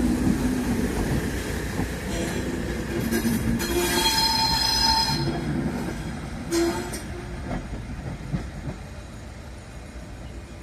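Passenger train pulling away and rolling over the station points, wheels rumbling and clattering. About four seconds in, the wheels give a high squeal lasting about a second and a half. The train fades as it moves off.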